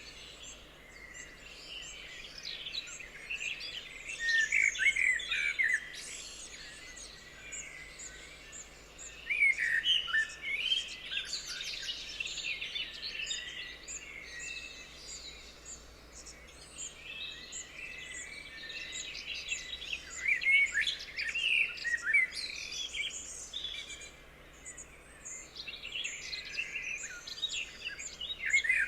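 Several forest songbirds chirping and singing together, with short trills and quick rising and falling notes in clusters, over a faint steady background hiss.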